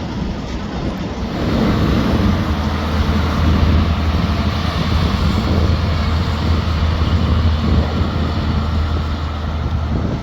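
A moving vehicle's steady engine and road noise with a strong low drone, growing louder about a second and a half in and then holding steady.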